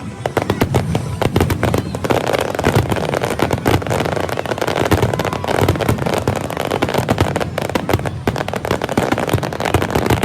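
Dense, unbroken fireworks barrage: rapid bangs and crackling shells overlapping one another without pause.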